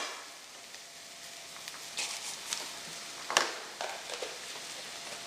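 Curry base frying in a stainless steel pan with a steady low sizzle. A wooden spoon scrapes and knocks against the pan a few times about two to three and a half seconds in, the loudest stroke near three and a half seconds.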